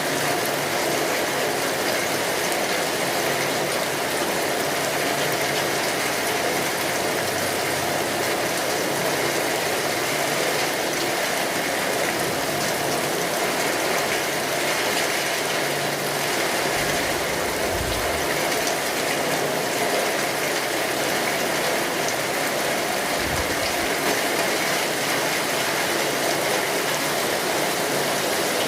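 Steady rain pattering on a tin roof, mixed with the fine crackle of a wood fire. Two short low rumbles come through, one about halfway and one about two-thirds in.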